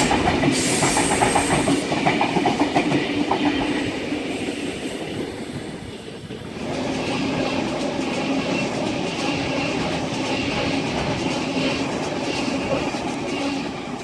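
Sydney Trains electric suburban trains passing through the station. For the first six seconds an S-set runs through, its wheels clattering over the rail joints. After a short lull, a Series 1 Waratah set passes, with steady humming tones over the rail noise.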